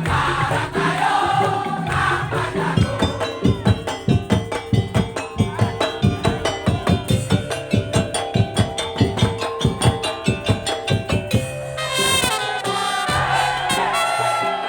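Madurese daul (tongtong) percussion ensemble playing, with a fast run of evenly spaced drum strokes over a held melody. Near the end a loud, high, horn-like melody comes in over the percussion.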